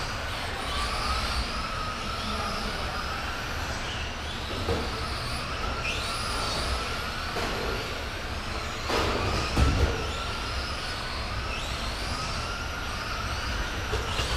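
Radio-controlled racing trucks' motors whining on the track, their pitch rising again and again as the trucks accelerate. There are a few sharp knocks about nine to ten seconds in.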